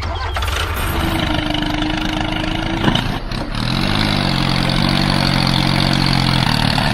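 Engine running steadily, with a brief click about three seconds in; about four seconds in its pitch rises and then holds.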